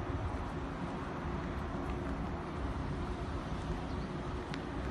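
Steady rumble of a moving train heard from inside the passenger car, with a faint steady hum over it.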